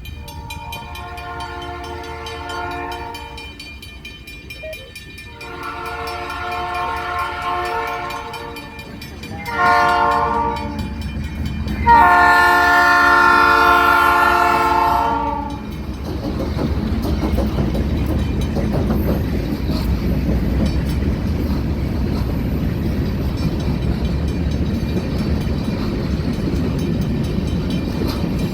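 Diesel locomotive horn blowing the grade-crossing signal: two long blasts, a short one, then a final long blast that is the loudest. After it, the GE B39-8E locomotives and train pass with a steady low engine rumble and wheel noise on the rails.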